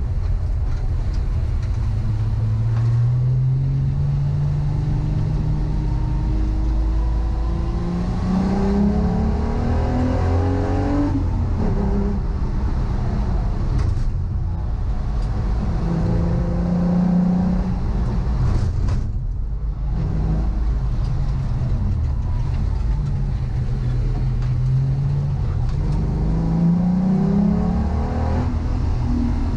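Volkswagen Corrado VR6 race car's narrow-angle V6 engine accelerating hard on track. Its pitch climbs through each gear and drops back at every shift, several times over, with a brief lift about two-thirds of the way in.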